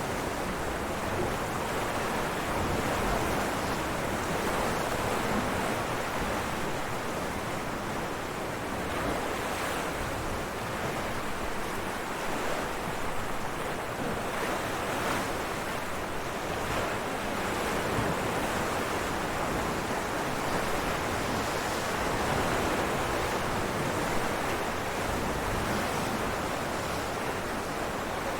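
Ocean waves breaking on rocks: a continuous rush of surf that swells and eases gently every few seconds.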